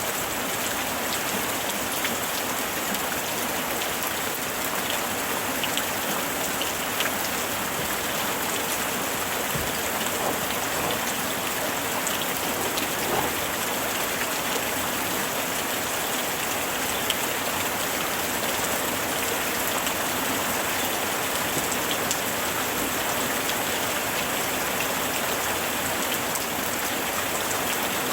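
Steady summer rain falling, a continuous hiss of rain with scattered individual drops ticking on a surface.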